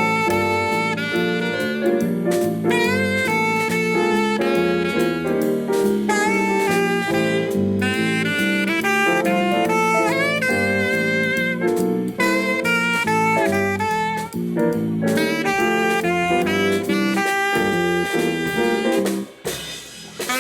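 A live band playing an instrumental piece at a sound check: a lead melody line with vibrato over chords and regular drum strokes. The music drops away briefly near the end, then resumes.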